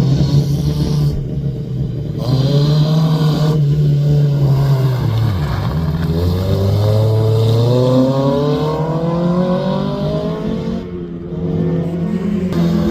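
Rally car engine under hard acceleration, its pitch climbing and breaking at each gear change; the revs drop sharply about five seconds in, rise again for several seconds, then fall back near the end.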